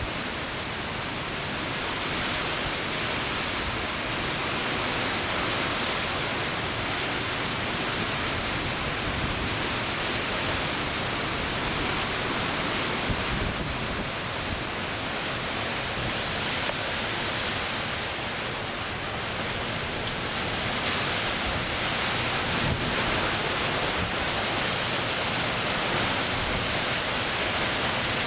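Hurricane wind and rain, a steady dense rushing noise that swells and eases slightly, with wind buffeting the microphone.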